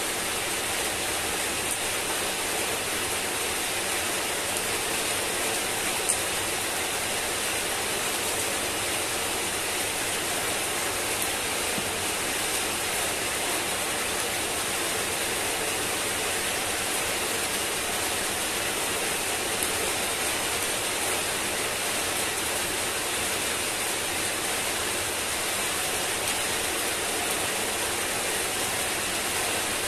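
Heavy rain falling steadily on wet paving, puddles and shrub leaves: an even, dense hiss. One sharper tick stands out about six seconds in.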